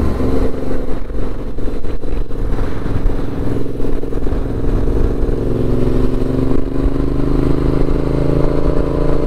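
Yamaha 689 cc parallel-twin motorcycle engine running steadily while riding, its pitch creeping up a little in the second half, with wind rumble on the helmet or bike camera.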